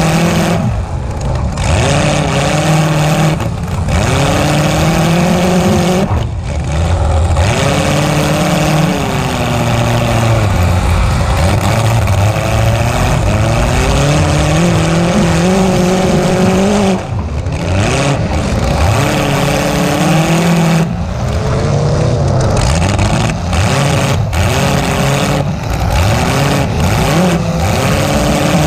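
Demolition derby car's engine running unmuffled through short vertical pipes poking up through the hood, revving up and falling back again and again as it drives and backs around the arena, with several brief dips when the throttle is let off.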